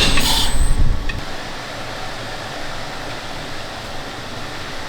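A sharp click and a low rumble that die away about a second in, then a steady, even hiss like a fan or air conditioning.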